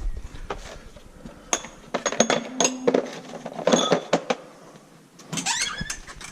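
A run of light metallic clinks and knocks, bunched in the middle, with a brief squeak near the end.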